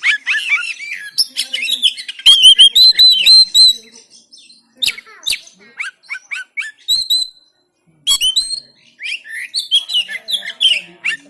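Oriental magpie-robin (kacer) singing in bursts of rapid, repeated high notes and down-slurred whistles mixed with sharp clicks. The song breaks off briefly about four seconds in and again just before eight seconds.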